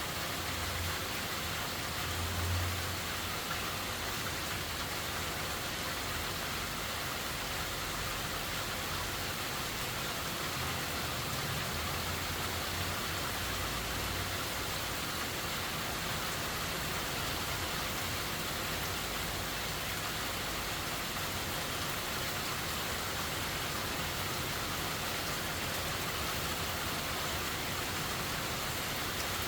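Steady, unbroken rain falling, with a low rumble coming and going a couple of times in the first half.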